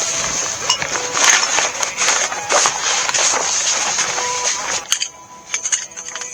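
Camping cot being assembled: rustling handling noise with clicks and metallic clinks of the frame. About five seconds in it grows quieter, leaving scattered clicks and short ringing clinks.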